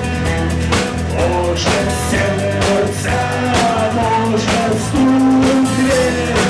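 Live rock band playing an instrumental passage: a lead electric guitar line over bass guitar and a drum kit keeping a steady beat.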